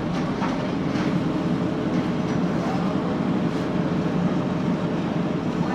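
Steady low rumble of a ferry's engine running, heard on board.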